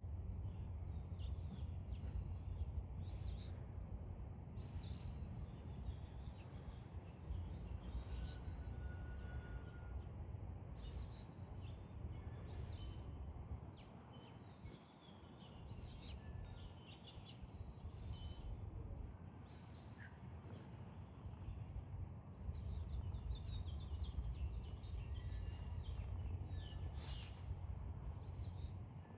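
Small birds chirping: short, high, arched calls repeating every second or two, over a steady low rumble.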